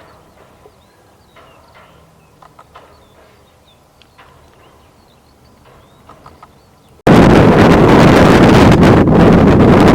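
Faint songbird chirps over quiet outdoor ambience. About seven seconds in, a loud, steady rush of wind noise on the microphone cuts in suddenly and drowns everything else.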